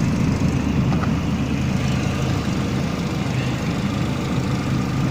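Renault Scenic's 1.6-litre K4M 16-valve four-cylinder petrol engine idling steadily.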